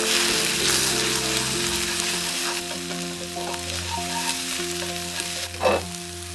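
Food sizzling and frying in a hot pan, loudest in the first two seconds, with a sharp pop near the end, under background music.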